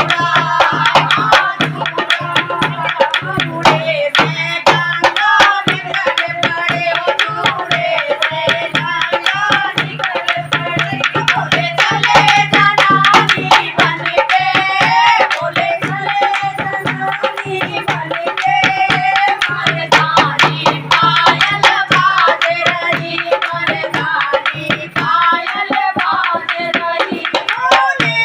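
A woman singing a Hindi devotional bhajan over fast, steady hand-drum accompaniment, with a low sustained tone dropping in and out beneath.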